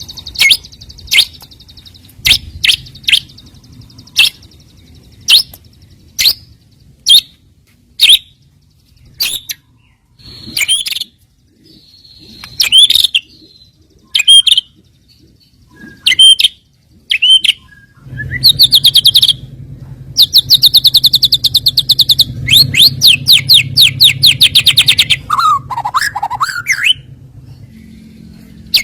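White-rumped shama singing: a string of sharp chips and short whistled notes, then fast rattling trills through the second half.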